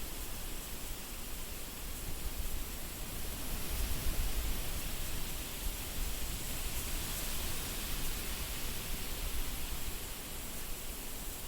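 Wind blowing in gusts: an even rushing hiss with a low rumble underneath, swelling a little a few seconds in and again past the middle.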